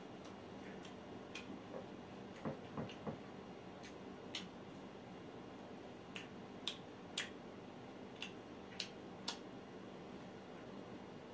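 Mouth sounds of a man chewing roasted mutton: about a dozen irregular, sharp smacking clicks of lips and chewing, with three duller ones close together between two and three seconds in.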